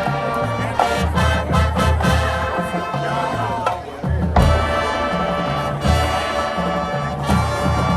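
High school marching band playing: brass holding sustained chords over steady low bass-drum strikes, with a loud accented full-band hit about halfway through.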